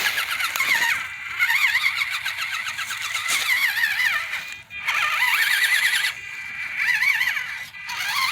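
Electric motor and gears of a 1/24-scale RC crawler truck whining, the pitch wavering up and down with the throttle, with a few brief breaks where the throttle is let off.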